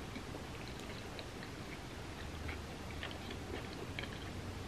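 Faint close-up chewing of a mouthful of soft, gooey cookie and ice cream, with scattered small wet mouth clicks over a steady hiss.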